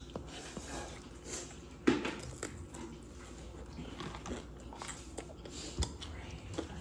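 Mukbang eating sounds: chewing and biting with scattered small clicks, and a sharper knock about two seconds in.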